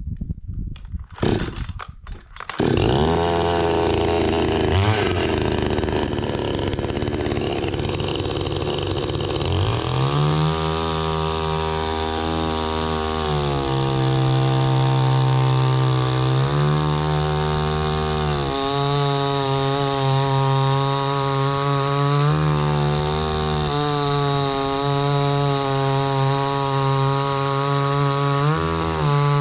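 Two-stroke chainsaw starting about two and a half seconds in and idling, then revving up about ten seconds in. It runs at high revs, the pitch dipping and recovering again and again as it cuts lengthwise through a log.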